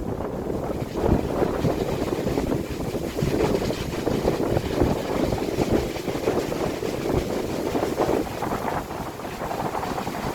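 Strong wind gusting and buffeting a phone's microphone: a low, rushing noise that swells and eases, with stronger gusts about a second in and around the middle.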